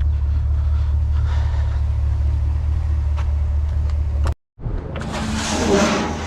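Steady low rumble of a truck driving, heard from inside the cab. It cuts off abruptly about four seconds in, and a rising rush of noise follows.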